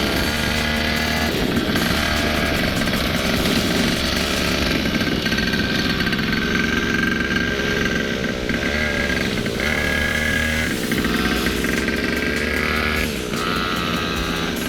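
Motorcycle engine running steadily, its pitch rising and falling a few times as the throttle is varied.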